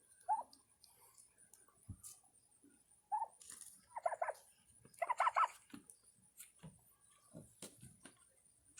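Domestic turkeys calling: a few short notes, then two quick runs of repeated calls a little past the middle, with faint scattered taps between.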